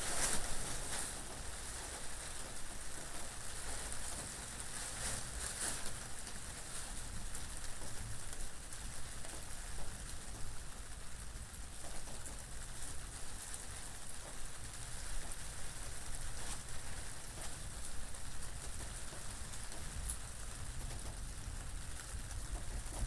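Steady rain falling, with a low rumble of wind underneath and a few louder spatters near the start and about five seconds in.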